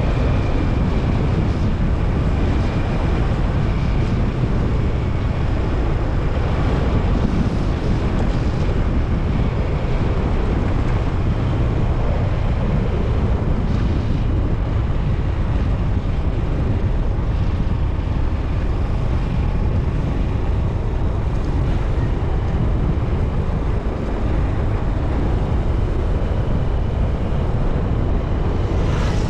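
Wind rushing over the microphone on a moving motorcycle, with the Honda TMX 125 Alpha's small single-cylinder engine running steadily underneath.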